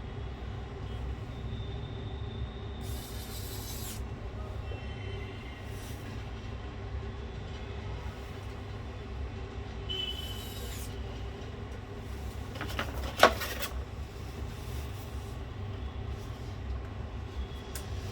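Handling sounds of laptop parts on a workbench: scattered rubbing and rustling over a steady low room rumble, with one sharp click about two-thirds of the way through.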